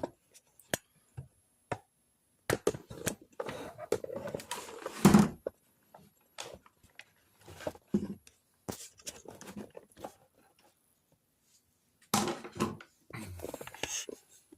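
Handling noise: irregular clicks, knocks and rustling as things are moved about by hand, with one louder thump about five seconds in and a short quiet spell near the end.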